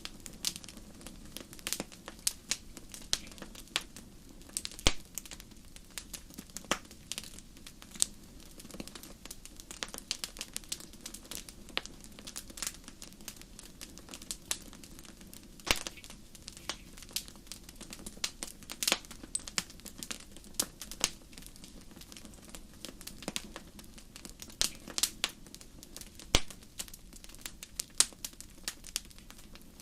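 Wood fire crackling in a fireplace: a steady run of sharp, irregular pops and snaps over a low, even rush of burning.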